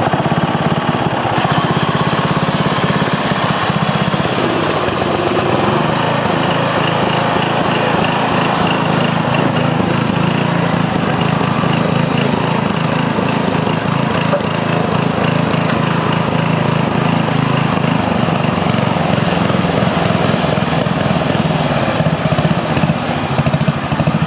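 Sears Companion riding lawn tractor's small engine running steadily while the tractor moves along in gear.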